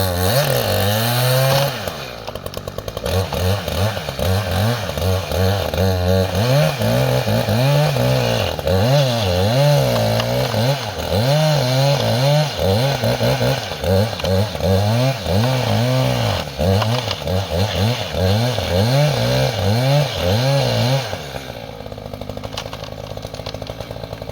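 Two-stroke chainsaw bucking a downed tree held under heavy side bind, its engine pitch rising and falling again and again as it revs and bogs in the cut. About 21 seconds in it drops back to a quieter idle.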